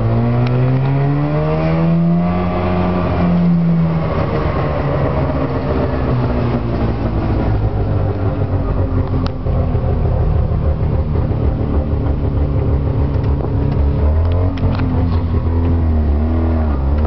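Subaru 360 pickup's air-cooled two-stroke two-cylinder engine pulling away under acceleration. It revs up over the first three seconds or so, drops sharply about four seconds in as it shifts up, then pulls steadily, with the revs dipping and wavering again near the end. The exhaust is a little loud from a hole in the muffler.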